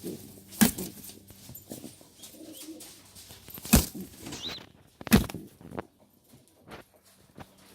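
Domestic pigeons cooing softly, with three loud, sharp knocks or wing claps spaced a second or more apart.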